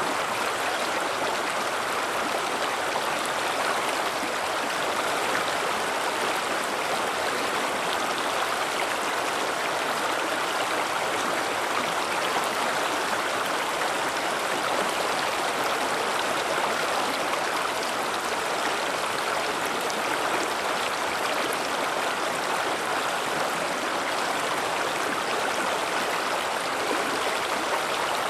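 River water flowing over rocks: a steady rushing with no breaks, strongest in the middle and upper range.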